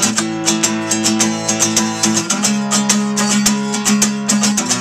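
Acoustic guitar played in an instrumental break, strummed chords ringing in an even rhythm, changing chord about halfway through and again near the end.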